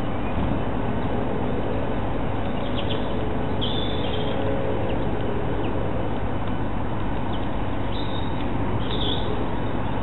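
Steady rumble and hiss with a few short, faint bird chirps: about three seconds in, near four seconds, and twice near the end.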